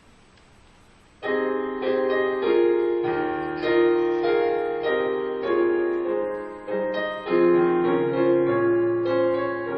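Keyboard playing slow held chords, starting suddenly about a second in after a faint hiss.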